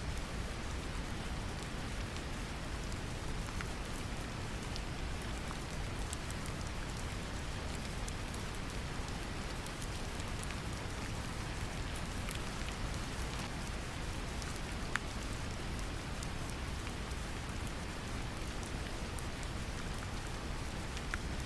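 Brown noise mixed with rain: a steady, deep rumbling hiss with the patter of many small raindrops ticking over it.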